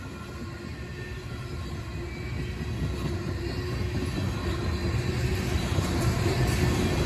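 Diesel freight train approaching, its locomotive engines rumbling and growing steadily louder.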